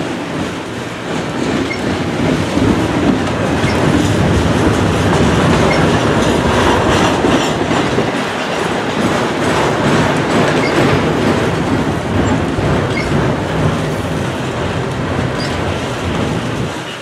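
A train rolling past at close range: a loud, steady noise of wheels running on the rails that carries on without a break.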